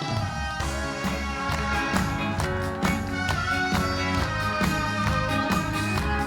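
Live trot band accompaniment between sung lines: a steady beat with bass under held instrumental melody notes.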